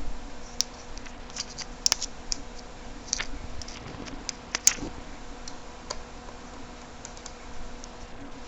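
Small tools and parts of a Sony Ericsson Xperia X10 Mini being taken apart: scattered sharp clicks and taps of metal and plastic, the loudest about two and five seconds in, over a faint steady hum.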